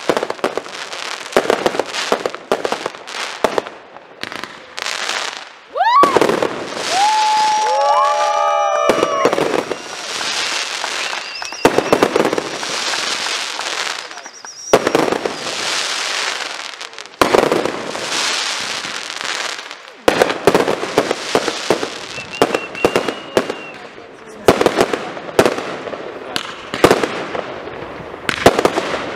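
Aerial fireworks display: a rapid series of bangs and crackles from bursting shells, with stretches of hissing crackle. About six seconds in, several whistles glide up and then down in pitch.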